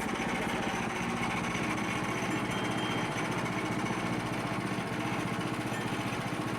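Small gasoline engine running steadily at a constant speed, with a fast, even firing pulse.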